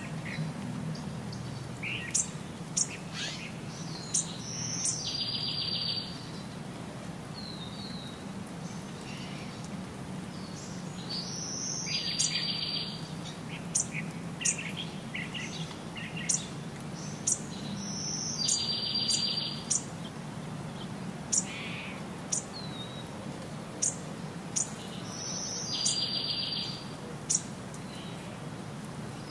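Wild songbirds: a short trilled phrase repeated about every seven seconds, with scattered sharp chirps between, over a faint steady low hum.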